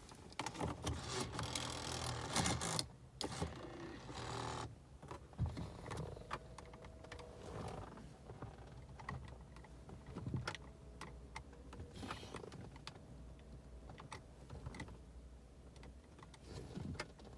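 Repeated clicks and two short mechanical whirring bursts from a 2006 Volvo S80 that fails to start, with a faint steady tone in the second half. The no-start is tied to a central electronic module (CEM) fault, code B102652.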